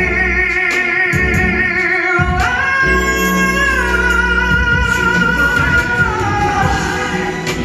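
Male ballad singer holding long notes with vibrato, stepping up to a higher sustained note about two and a half seconds in and sliding down near the end, over instrumental accompaniment with guitar.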